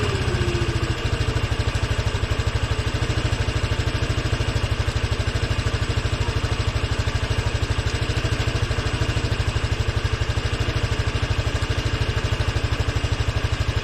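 Honda Helix scooter's single-cylinder engine idling steadily with an even, rapid pulse, just after a rev falls away at the very start.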